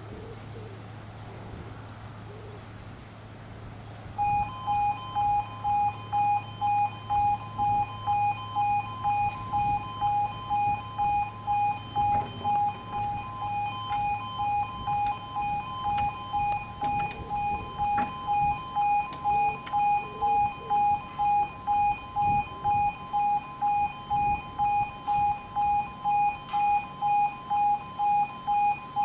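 E2S Appello level crossing alarms start up about four seconds in, warning that the half barriers are about to lower for an approaching train. They give a pulsing electronic tone, about two beeps a second, over a low steady hum.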